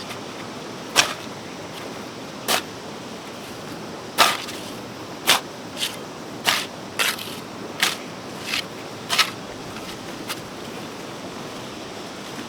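About a dozen sharp knocks and short scrapes at irregular intervals, roughly one a second, over a steady hiss.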